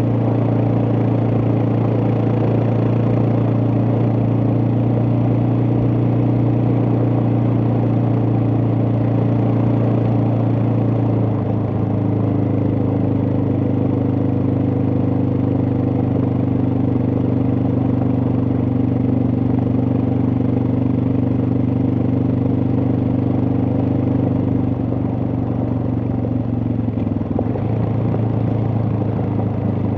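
Suzuki DR650's single-cylinder four-stroke engine running under way at a steady cruising speed. Its note shifts about a third of the way in, and again near the end as the throttle changes.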